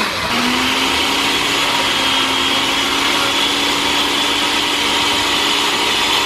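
Countertop blender motor running at full speed, grinding Flamin' Hot Cheetos into a powder. The motor pitch climbs a little shortly after the start, then holds steady over a loud, even grinding noise.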